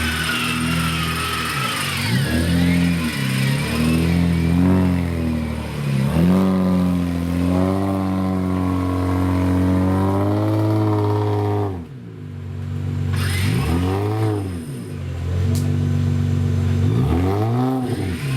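Off-road 4x4's engine revving up and down over and over as it is worked through an obstacle. About twelve seconds in it drops off sharply, then picks up again in a couple of short rev blips.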